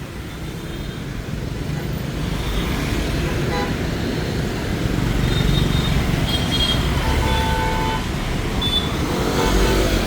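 Dense city street traffic, mostly motorbikes, engines running in a steady rumble, with a few short horn beeps in the second half.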